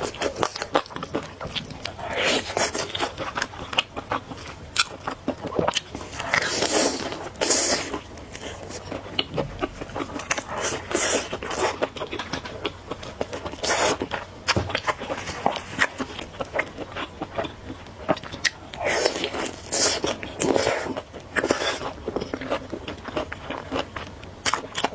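Close-miked eating of spicy noodles: several noisy slurps of about a second each, with chewing and many small wet mouth clicks in between.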